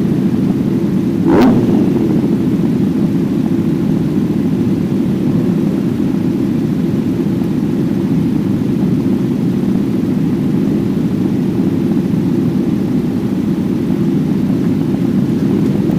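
Kawasaki Z900 inline-four motorcycle engine heard onboard at speed, running at a fairly steady high pitch. A brief sharp burst comes about a second and a half in.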